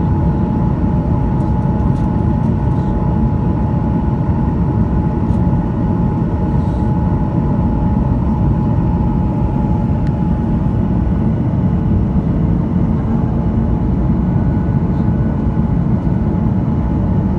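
Steady cabin noise aboard a Boeing 737-900ER in flight: a deep, even roar of engines and airflow with a faint steady whine on top.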